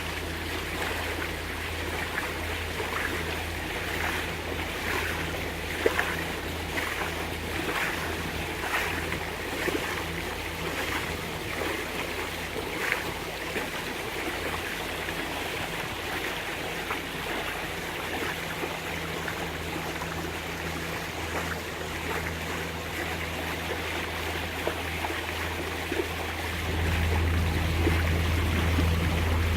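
Catamaran's engines running steadily under power, a low even hum, with water rushing and splashing against the hulls. The engine hum gets louder near the end.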